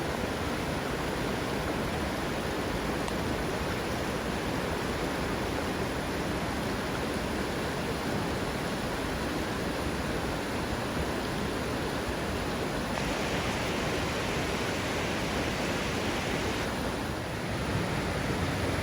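Waterfall: the steady rush of falling water, an even noise with no break. Its tone turns brighter about two-thirds of the way in, then duller again near the end.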